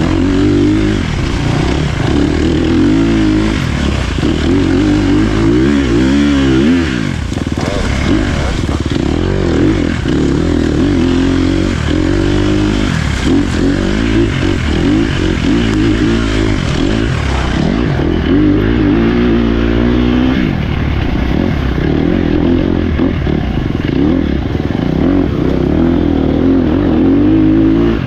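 Dirt bike engine being ridden hard on an off-road trail, its pitch rising and falling over and over as the throttle opens and closes, with a deeper dip and climb about six seconds in.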